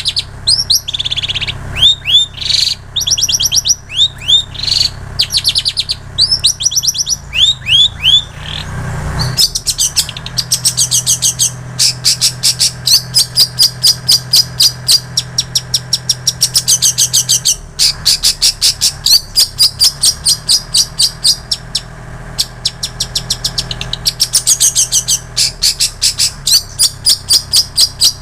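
Long-tailed shrike singing a loud, varied song that includes mimicked prinia and canary phrases. For the first nine seconds it gives short bursts of quick falling notes, then long runs of rapid repeated high notes with brief pauses.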